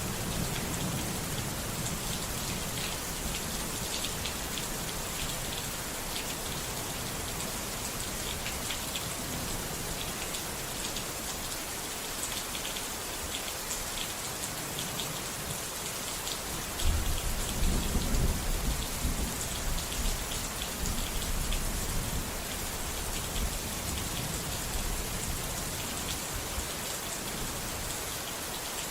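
Steady rain with scattered drop ticks. A roll of thunder rumbles in a little past halfway and fades away over several seconds.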